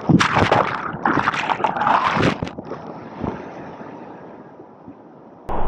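River whitewater splashing around a kayak: a run of loud splashes over the first couple of seconds, then a fainter steady rush of water that fades away.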